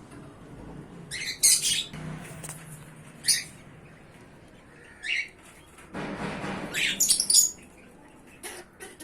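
Small caged parrots (lovebirds and Australian parrots) giving short, sharp high-pitched squawks and chirps every second or two, loudest about one and a half and seven seconds in, with a brief rustle from the birds moving around six seconds in.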